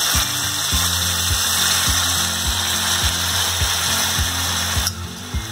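Water poured into a hot pan of fried curry masala, hissing and sizzling as it hits, until the pour stops about five seconds in. A low beat repeating about every 0.6 s runs underneath.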